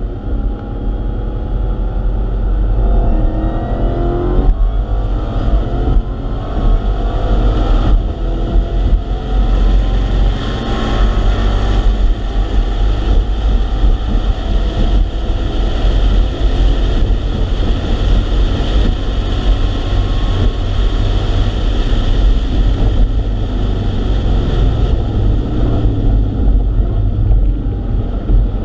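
Car engine at full throttle on a race track, heard from inside the cabin, its pitch climbing through the revs with a short break about four and a half seconds in, as at a gear change, then pulling on at high speed with wind and road noise.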